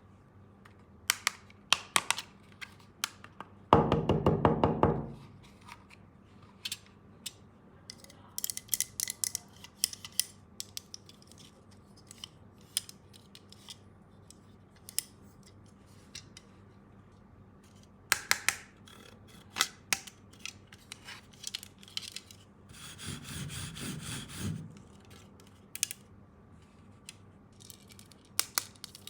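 Plastic toy power tools being handled, with scattered sharp clicks and rattles, and a battery-powered toy tool's motor buzzing briefly twice, about four seconds in and again near the end.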